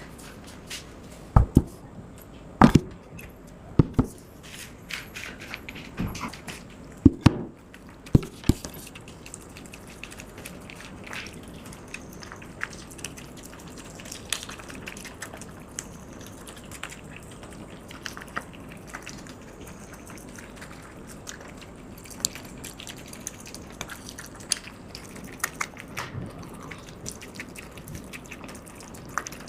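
Several cats lapping milk and eating, a steady wet patter of many small licking clicks. A few sharp knocks come in the first eight seconds.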